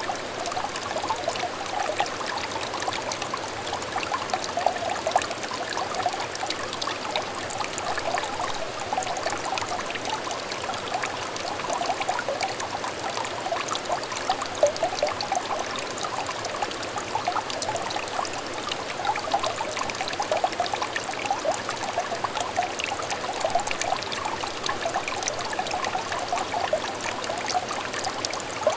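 Water trickling and babbling in a small clear stream, a steady run of little bubbling splashes.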